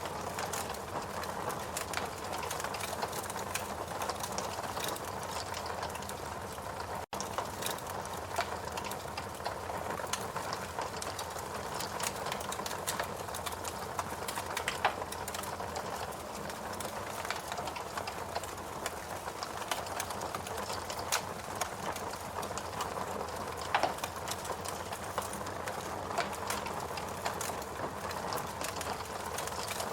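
Wood fire burning in a fireplace: a steady crackling hiss with frequent sharp pops and snaps from the burning logs. The sound cuts out for an instant about seven seconds in.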